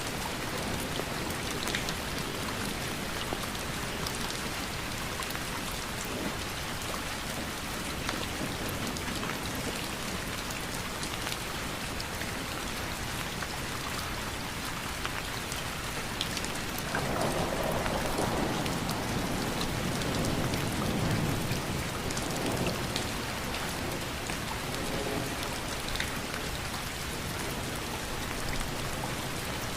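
Steady rain falling, with individual drops tapping through the hiss. A low rumble swells for a few seconds just past the middle.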